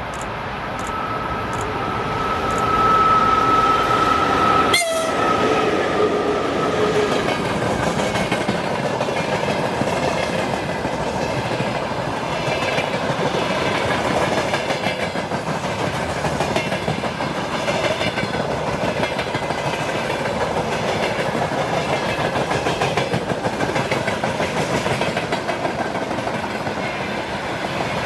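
A Russian freight train passing close by. The locomotive's horn sounds as it approaches, then its pitch drops sharply as the locomotive goes by. The freight wagons then roll past with a steady rhythmic clatter of wheels over the rail joints.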